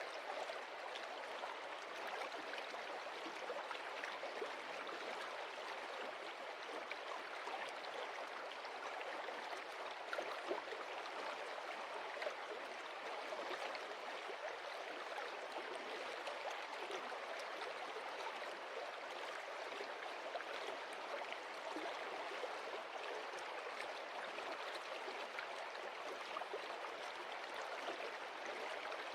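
Stream water flowing and splashing over stones, a steady rushing with fine, quick splashes all through.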